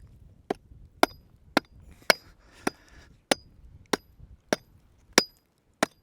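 Metal digging tool striking hard-packed caliche ground in a steady rhythm, about ten blows at just under two a second, several with a brief metallic ring: the ground is so hard it has to be chipped out blow by blow.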